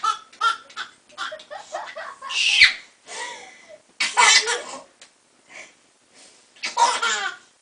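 Baby laughing in repeated bursts of giggles and belly laughs, with a high-pitched squeal about two and a half seconds in.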